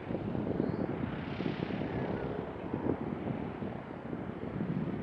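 Aircraft engine running steadily, most of the sound low-pitched and unbroken.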